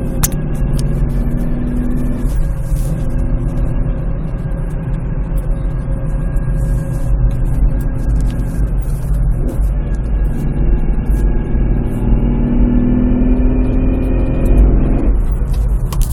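Nissan Pathfinder running with a steady whining noise over the engine's rumble, coming from the transmission area. The whine creeps slightly up in pitch, then drops suddenly near the end. The noise appears only with the engine cold, and the owner wonders whether it is a flywheel bearing.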